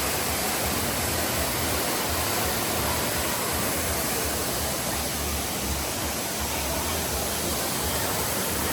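Wind rushing over the microphone of a moving vehicle, a steady noise with uneven low buffeting.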